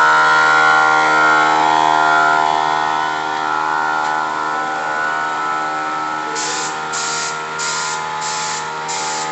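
A steady hum of several held tones, then from about six seconds in, paint spraying onto the car's engine bay in short hissing passes about twice a second.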